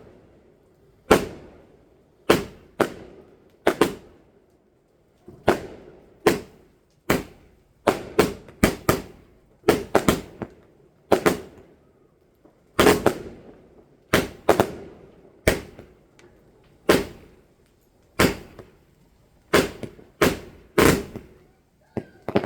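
Fireworks exploding: a long run of sharp bangs at irregular intervals, sometimes several within a second, each trailing off in an echo.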